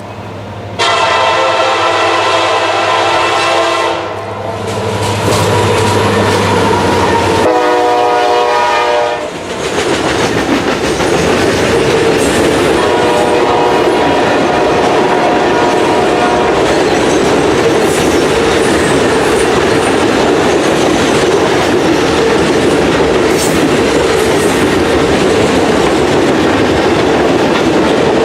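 A CSX SD70MAC diesel locomotive's air horn sounds two blasts: one of about three seconds, and a shorter one a few seconds later at a different pitch. Then comes the loud, steady rush and clickety-clack of the locomotive and its work train passing at speed.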